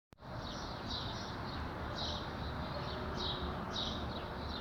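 Young kittens mewing in thin, high-pitched squeaks, about two a second, many falling in pitch, over a steady low background hum.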